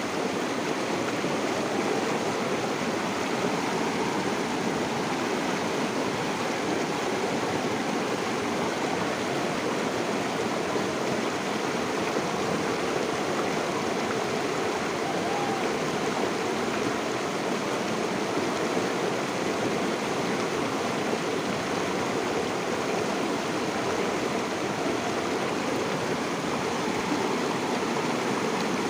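Flowing river water, a steady rushing and burbling.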